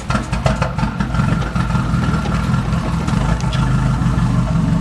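Nissan CA18DET turbo four-cylinder engine idling steadily just after starting, not yet warmed up, through a 3-inch straight-pipe exhaust.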